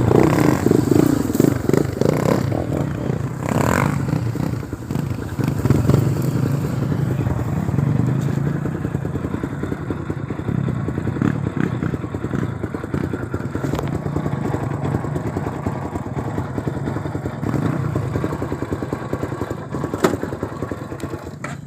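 Single-cylinder four-stroke trail motorcycle engine running under way, with clatter and knocks from the bike over rough ground, and a sharp knock near the end.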